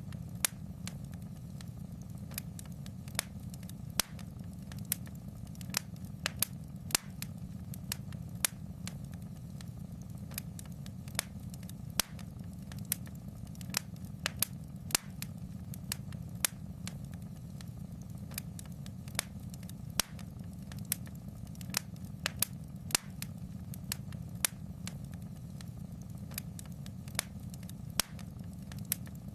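Fire crackling in a fireplace: irregular sharp pops and snaps, a few a second, over a steady low rumble.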